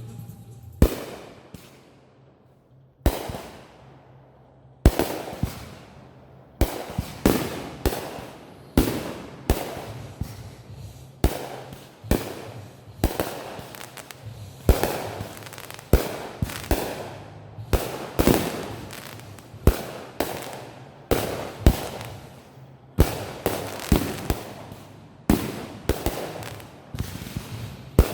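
Backyard fireworks going off in quick succession: sharp bangs, one to two a second, each with a fading tail. There is a single bang about a second in, then a short lull before the volley starts.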